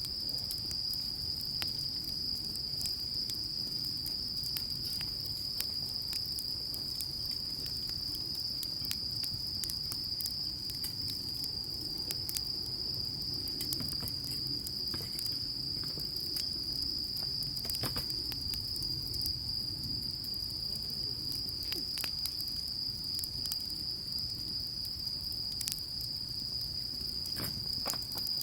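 Insects chirring in a steady, unbroken high trill, with scattered sharp clicks and crackles throughout.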